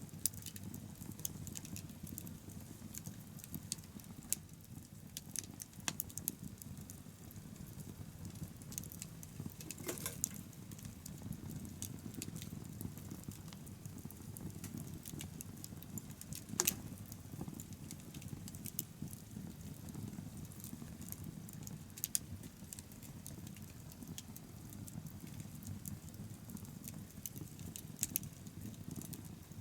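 Wood bonfire burning: a steady low rush of flame with irregular crackling throughout and a few louder pops, the loudest a little past the middle.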